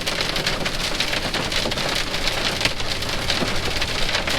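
Heavy rain and hail pelting the truck's cab and windshield in a dense, steady patter of countless small hits.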